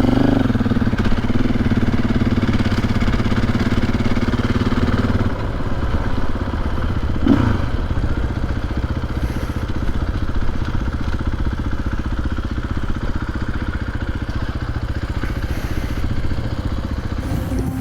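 KTM 500 EXC dirt bike's single-cylinder four-stroke engine running steadily while riding; its tone changes about five seconds in.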